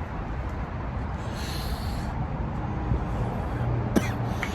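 Steady low rumble of road traffic, with a brief hiss about a second in and a sharp click near the end.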